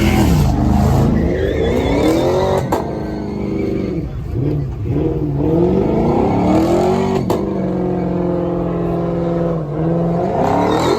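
Car engine revving hard, its pitch climbing and dropping several times, with two sharp cracks, one a third of the way in and one about two-thirds of the way in.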